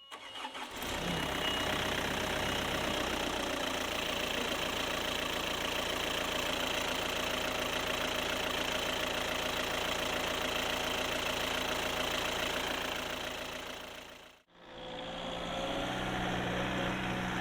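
Diesel engine of a Jungheinrich DFG 425s forklift, a Volkswagen unit, running steadily. About fourteen seconds in it drops away to nothing for a moment and comes back with a different tone.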